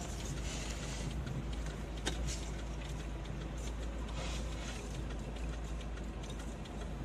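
Steady low rumble of a moving car's engine and tyres, with a sharp click about two seconds in.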